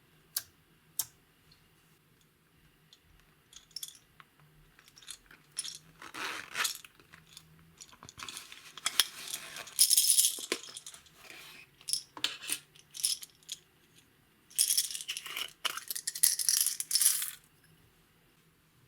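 Close-up slime-mixing sounds: scattered sharp clicks and taps, with longer bursts of crackling about six, nine and fifteen seconds in.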